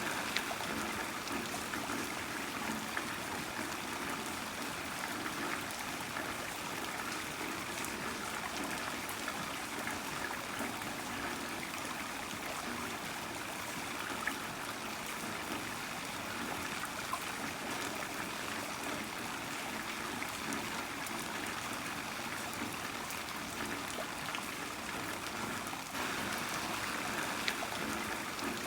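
Heavy rain falling steadily, a dense even hiss with scattered sharper drop ticks and water trickling.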